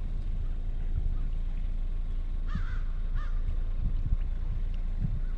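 Two bird calls about half a second apart, a little past the middle, over a steady low rumble of wind on the microphone.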